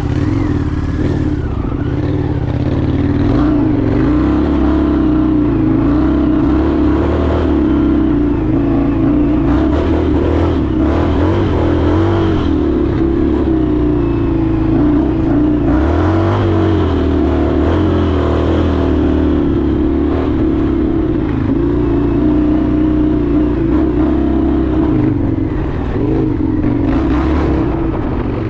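Indian FTR 1200's V-twin engine running steadily while riding, its pitch rising and falling a little with the throttle.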